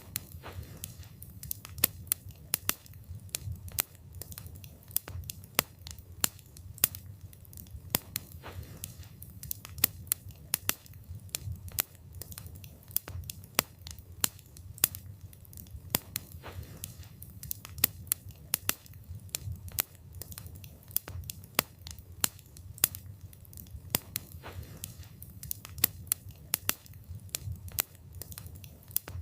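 Wood fire burning with a low steady rumble and frequent irregular crackles and sharp pops of burning wood, several a second.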